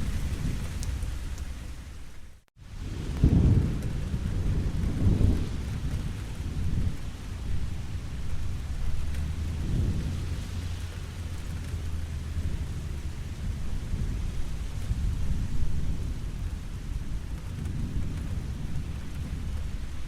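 Steady rainfall with rolling thunder rumbling low underneath, swelling and fading every few seconds. The sound cuts out completely for a moment about two and a half seconds in, then comes back on a strong rumble.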